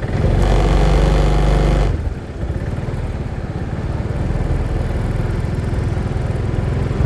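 Yamaha Morphous 250 cc scooter engine running under way. It is loudest for the first two seconds, drops back briefly, then builds steadily again as the bike pulls along, with road and wind noise mixed in.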